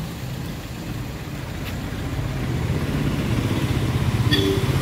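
Car engine running as the sedan moves off, getting steadily louder over the last couple of seconds, with a short high beep near the end.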